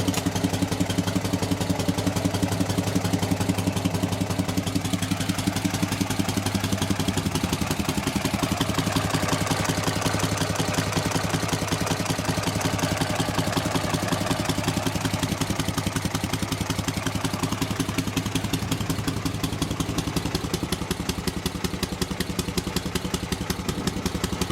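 M72 motorcycle's flat-twin side-valve engine running, with an even pulsing beat. Its note holds steady at first, then wavers from about seven seconds in.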